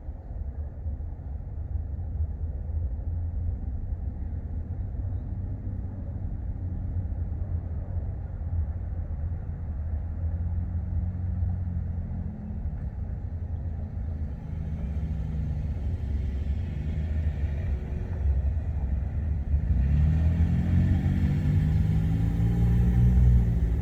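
A low, steady rumble that slowly builds. In the last few seconds a road vehicle's engine passes, its pitch rising and falling.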